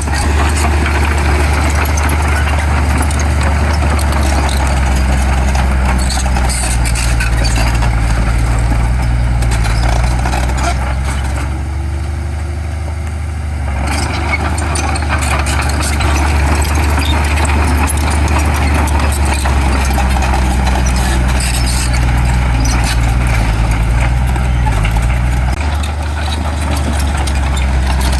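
Heavy diesel earthmoving machinery running, with a steady low engine drone and scattered metallic clanks. The engine eases off for a couple of seconds about halfway through, then picks up again.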